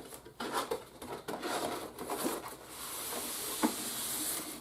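Toy box packaging being handled and opened: irregular rustling and scraping of cardboard and plastic, then a longer, steady sliding scrape in the last second and a half, with one sharp click shortly before the end.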